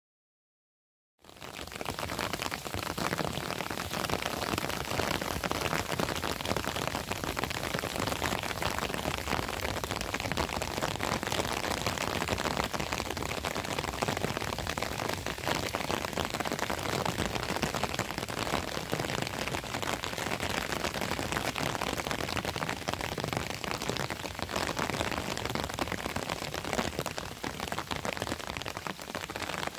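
Steady heavy rain, starting about a second in after a moment of dead silence.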